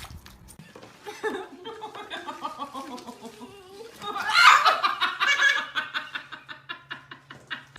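A person laughing hard in repeated bursts, loudest about halfway through, then trailing off into short rhythmic laughs near the end.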